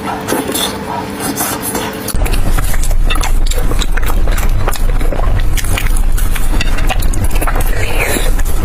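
Close-miked eating: biting and chewing food, with many short mouth clicks. About two seconds in, the sound jumps louder and a steady low rumble comes in under the chewing.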